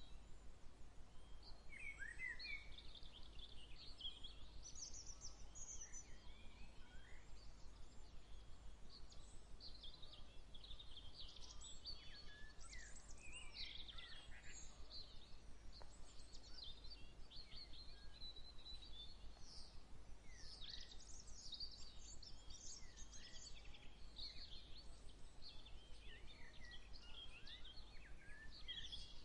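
Many birds chirping and singing at once, short overlapping high calls and trills, over a steady low rumble.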